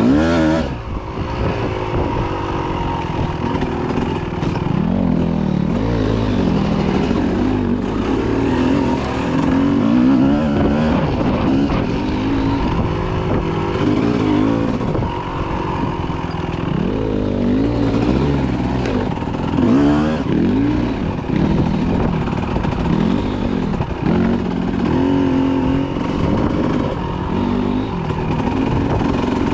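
Dirt bike engine being ridden on a trail, revving up and down over and over as the rider works the throttle. Its pitch rises and falls every second or two.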